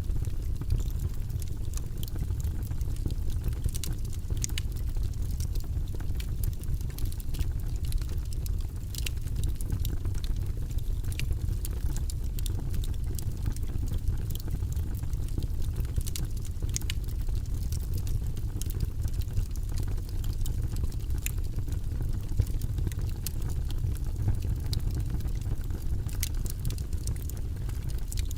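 Log fire burning in a fireplace: a steady low rumble of flame with frequent small, sharp crackles and pops from the burning wood, scattered irregularly.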